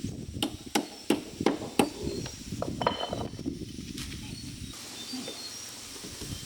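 A run of sharp knocks, about three a second for the first two seconds, then a few scattered ones about halfway through, over low rustling.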